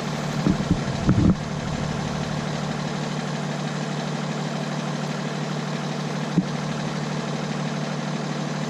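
Freightliner rollback tow truck's diesel engine idling steadily, with a few light knocks about a second in and a single sharp click later on.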